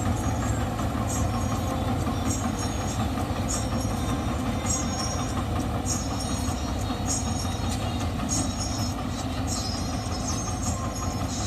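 Sonalika Sikander Worldtrac 60 RX tractor's diesel engine running steadily at idle, with short high chirps repeating over it about once or twice a second.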